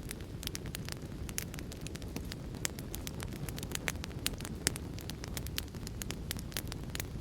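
Wood fire in a fireplace crackling, with many irregular sharp pops and snaps over a steady low rushing noise of heavy rain.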